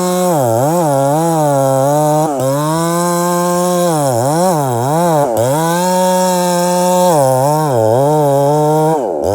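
Two-stroke chainsaw engine revved hard at full throttle, its pitch held high and then dipping and snapping back several times as the throttle is blipped. Near the end the revs fall away.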